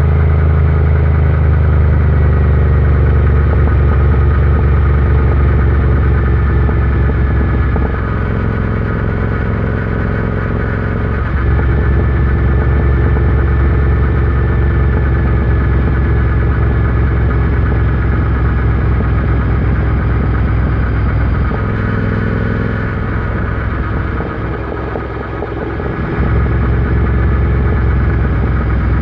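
Royal Enfield Interceptor 650's parallel-twin engine and exhaust running under way at a steady pace. The note eases off about a third of the way in and again near the end, each time picking back up as the throttle is reopened.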